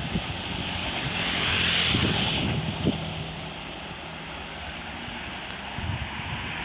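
Passenger coaches of a long express train rolling past on the rails: a steady noise of wheels on track that swells about two seconds in, with a few irregular knocks of the wheels over rail joints.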